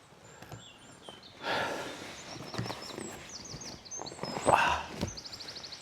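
Rustling and footsteps on the forest floor, loudest twice, with small birds chirping throughout and a quick trill of repeated high notes near the end.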